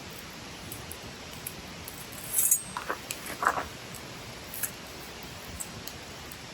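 Wood campfire burning with a steady hiss and scattered crackles, then a short flurry of louder, sharp pops and snaps from the burning wood about two and a half to three and a half seconds in.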